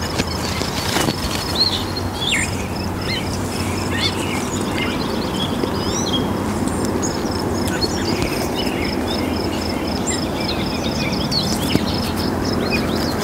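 Small birds chirping with short scattered calls over a steady, rapidly pulsing high note, with a low even rustling haze underneath.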